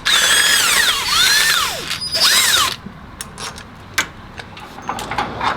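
Handheld power tool running in two bursts on an engine-mount bolt, its pitch sweeping down as it slows, then a run of light metallic clicks and taps.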